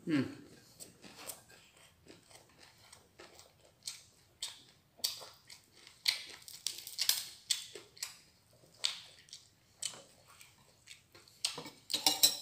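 A man chewing a mouthful of fried fish and rice, close to the microphone: irregular short mouth clicks that bunch together near the end. Right at the start there is a brief sound falling in pitch.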